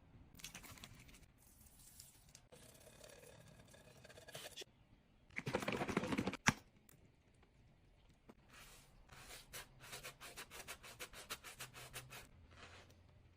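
Faint scraping and scrubbing sounds of cleaning: scattered scratches, a louder rushing burst about five and a half seconds in that ends in a sharp click, then a run of quick, rhythmic scrubbing strokes.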